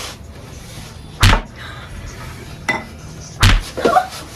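Two sharp knocks about two seconds apart, each with a low thud, from something hard struck or set down.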